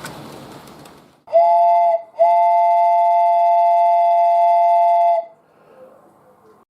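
The running noise of model locomotive motors fades out in the first second. Then a two-note steam locomotive whistle sounds twice, a short toot and then a long blast of about three seconds.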